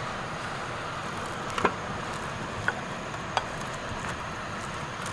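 Steady outdoor background hiss with a few short, sharp clicks spaced about a second apart.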